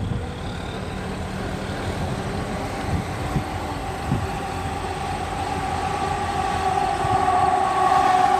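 Idling EMD diesel locomotives, an SD9 and an SD40-2, running with a low rumble and a steady whine that grows louder over the last few seconds.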